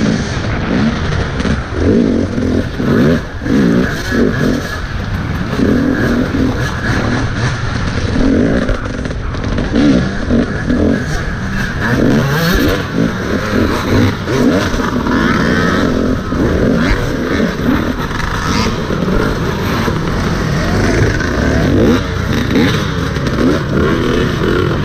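Dirt bike engine racing over motocross terrain, its pitch rising and falling again and again as the rider works the throttle and gears, heard from a camera mounted on the rider's helmet.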